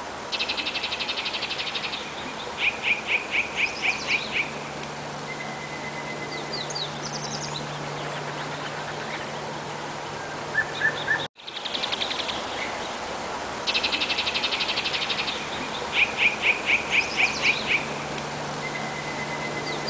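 Wild birds singing over a steady outdoor hiss: fast high trills and runs of quick repeated chirps, about five a second. The same stretch of birdsong plays twice, with a brief cut about eleven seconds in.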